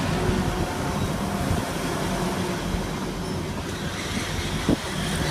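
Class 180 diesel multiple unit running as it comes into the platform, a steady low rumble with a faint engine hum.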